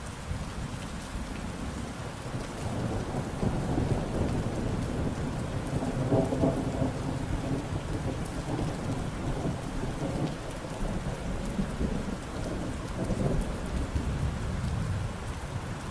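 Steady rain with thunder rumbling low and long beneath it. The rumble builds a couple of seconds in and swells twice.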